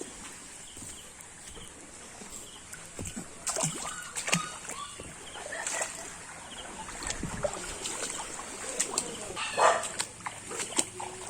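Floodwater splashing in scattered, irregular bursts, with a short, louder animal call about nine and a half seconds in.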